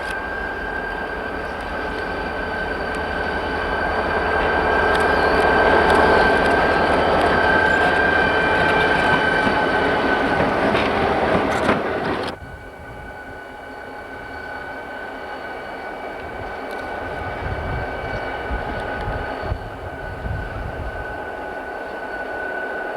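A train rolling past with a steady rumble of wheels on rail, growing to its loudest about a quarter of the way in. About halfway through, the sound drops off abruptly and then carries on more quietly.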